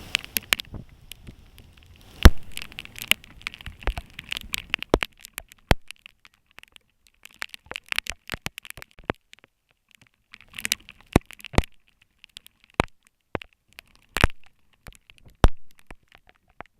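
Irregular sharp clicks and cracks of rain during a heavy storm, most likely large drops striking the camera or microphone, with one loud crack about two seconds in and near-silent gaps between the hits.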